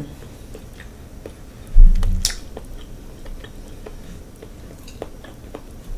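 Chewing close to the microphone, with scattered small mouth clicks and one loud low thump about two seconds in.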